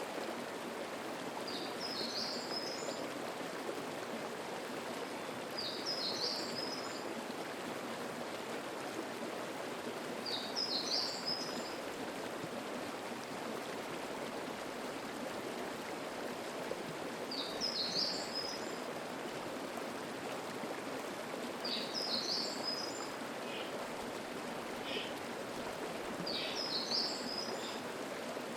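A mountain stream murmuring steadily over rocks. Over it, a songbird repeats a short high song phrase six times, about every four seconds, with a few fainter calls near the end.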